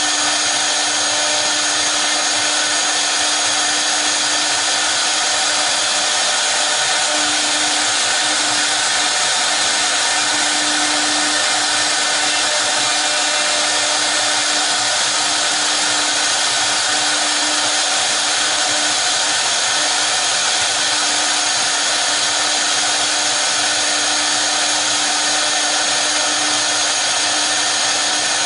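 The spindles of a double-head CNC router running steadily: a constant hiss with a steady low hum beneath it, unchanging throughout.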